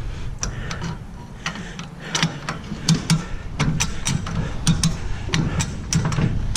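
A string of irregular sharp clicks and light knocks over a steady low hum.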